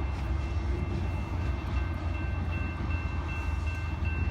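Train rolling past with a steady low rumble, a faint thin high tone ringing over it.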